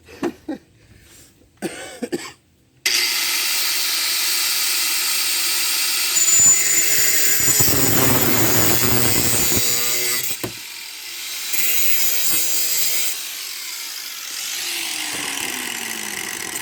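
Power saw starting abruptly about three seconds in and cutting through a steel lawnmower-handle tube, a loud, steady noisy cut that eases off about ten seconds in and runs on more quietly to the end.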